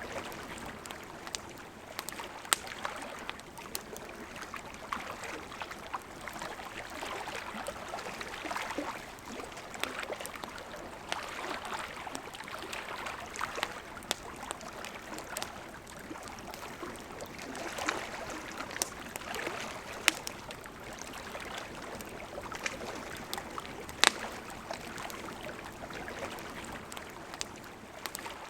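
Campfire crackling, with scattered sharp pops, a few much louder than the rest, over the steady rush of a flowing river.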